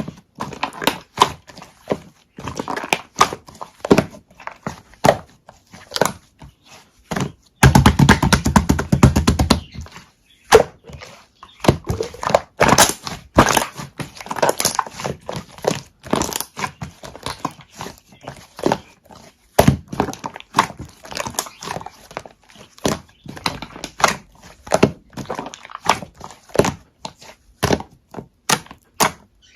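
A series of irregular knocks and taps, with a burst of very rapid, evenly spaced tapping about eight seconds in that lasts a couple of seconds.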